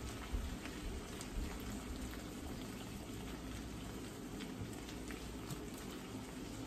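Shrimp, vegetable and ramen stir-fry sizzling in its sauce in a skillet as a silicone spatula stirs it: a steady crackle with scattered small ticks.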